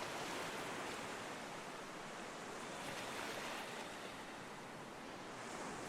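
Ocean waves washing on a shore, a steady surf hiss that swells and eases gently.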